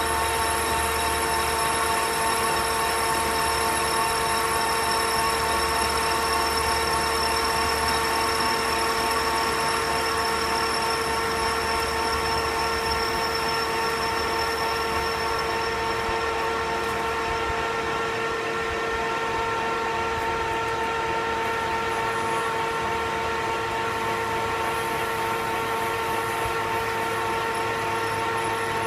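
Metal lathe running steadily with a constant whine of several tones while facing a cold-rolled steel bend die, a refacing cut to remove a taper.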